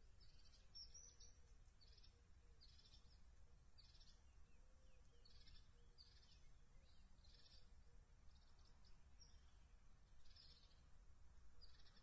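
Faint, high-pitched bird calls: short thin notes repeated about once a second, over a low steady rumble.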